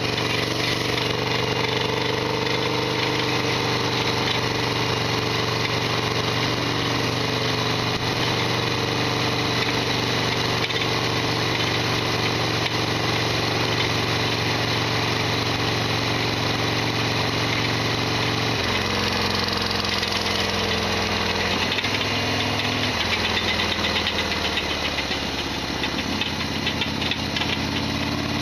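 Harley-Davidson Sportster XL1200R's air-cooled V-twin engine running while riding, with the loud rattling that the owner calls noisy as usual. The engine note holds steady at first, then drops about two-thirds of the way through and shifts in steps several times.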